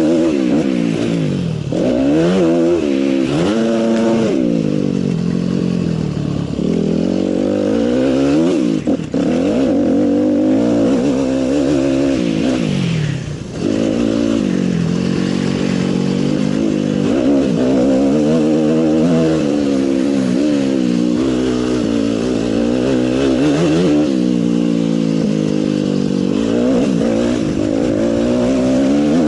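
Motocross motorcycle engines revving hard, rising and falling in pitch as the riders work the throttle and shift, with several bikes sounding at once.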